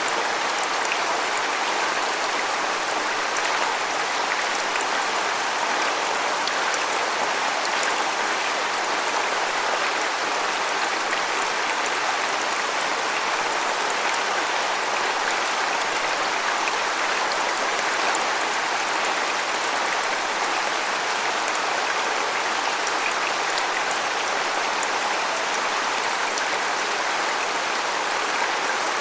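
Waterfall: water falling and splashing in a steady rushing hiss with fine spattering, unchanging throughout.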